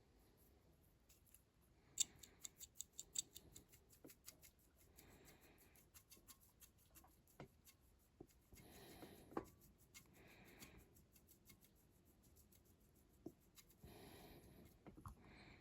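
Near silence with faint handling sounds of small bench work: a quick run of small clicks about two seconds in, a few single ticks, and soft rubbing or breathing noises.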